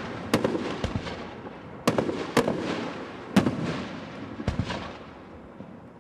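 Aerial fireworks going off: a string of sharp bangs, about one a second, each followed by crackling that fades away, thinning out near the end.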